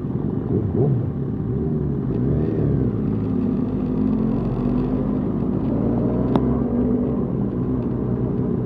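Motorcycle engines running at low speed in a group, revs rising and falling in the first few seconds and then holding steadier. A single sharp click about six seconds in.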